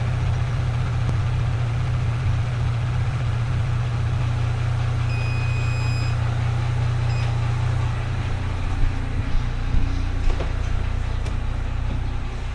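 Steady low mechanical running hum, with a short electronic beep about five seconds in and a few clicks and knocks in the last few seconds.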